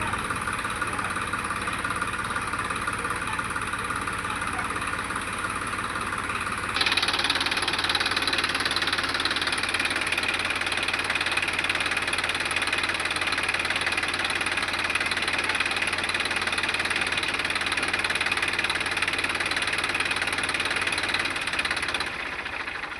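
Tractor engine running steadily; about seven seconds in it suddenly gets louder and brighter, and it eases off again near the end.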